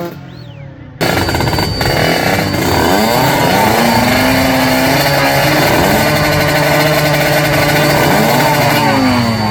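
Racing motorcycle engines revving hard, several at once, their pitches rising and falling. They start loud and sudden about a second in, after a quieter moment.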